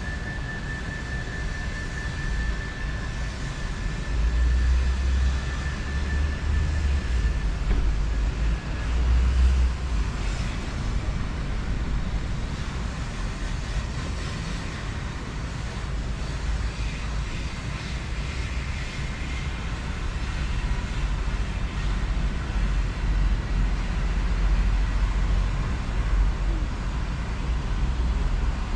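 A train running at the platform with a deep rumble that swells twice. A steady high whine fades out about seven seconds in.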